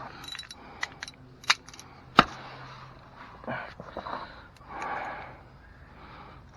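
Sharp clicks and knocks, the loudest about two seconds in, followed by softer rustling: hand work on the step rail's mounting bolts and hardware.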